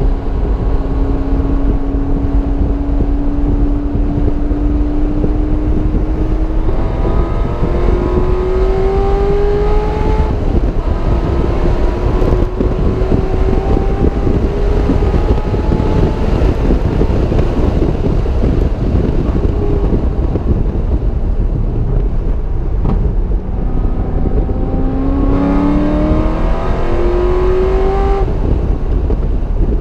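Car engine pulling hard through the gears: its note climbs, drops at a shift and climbs again several times, over a loud, constant rush of wind and road noise.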